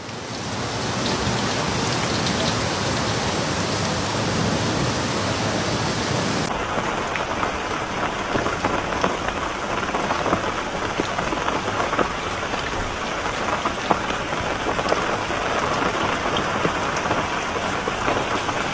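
Heavy rain pouring over a rushing flash flood, a steady hiss with a low rumble underneath. About six seconds in, after a cut, a dense hiss of rain and hail hitting a hail-covered street, full of many small sharp taps.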